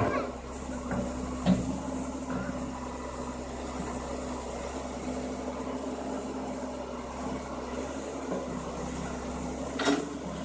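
Excavator running steadily with a constant hum, with sharp knocks near the start, about a second and a half in, and near the end.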